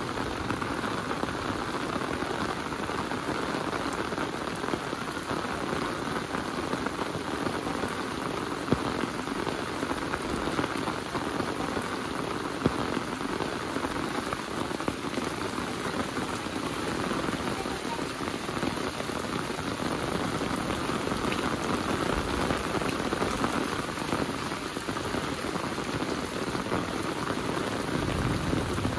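Heavy rain falling steadily, a dense hiss of drops on surfaces, with a couple of sharper drop hits standing out near the middle.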